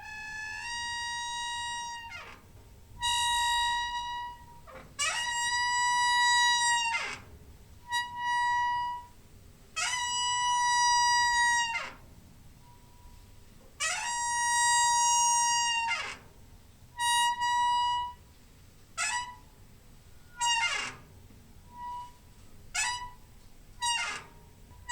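Squeaky door hinge creaking as a door swings back and forth: a series of high, pitched squeals, each a second or two long and sliding in pitch as it starts and stops, turning into shorter, quicker squeaks near the end.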